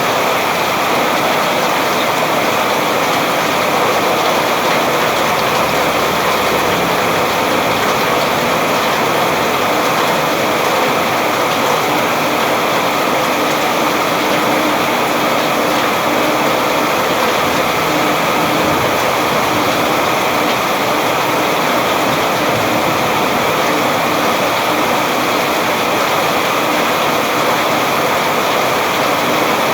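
Steady rain falling, a dense even hiss with no change in strength.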